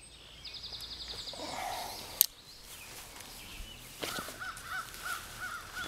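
Birds calling outdoors: a quick high trill, then short arching calls repeated about three times a second. A single sharp click cuts in about two seconds in.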